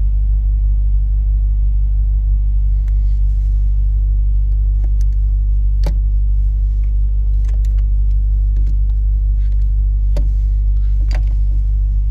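BMW 740's 4.4-litre V8 idling steadily, just started with a jump starter despite a dead battery, heard close in the open engine bay. A few sharp clicks cut through it, about halfway and twice near the end, as the jump starter and its cable are handled.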